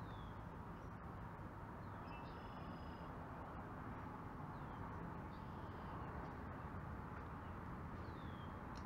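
Bird calls, a few short falling whistles and chirping phrases, over a steady low rumble of outdoor background noise.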